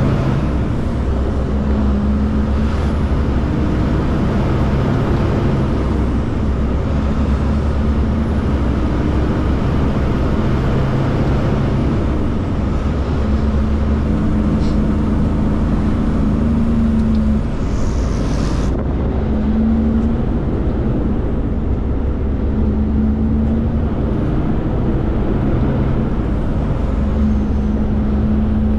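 Kenworth K200 cabover's Cummins diesel engine running as the truck drives off under load, its pitch shifting a few times. A short hiss comes about eighteen seconds in.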